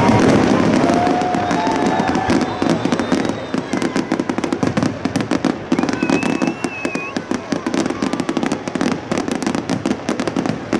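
Aerial fireworks display going off in a dense barrage. A steady wash of noise for the first few seconds gives way, from about three seconds in, to a rapid run of sharp crackles and bangs.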